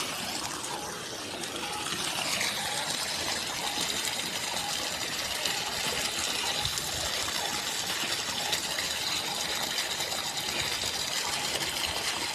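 Water rushing and splashing steadily.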